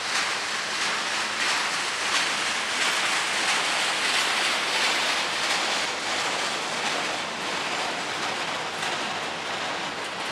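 Double-stack container well cars of a freight train rolling past: a steady rushing of steel wheels on rail, with faint clicks.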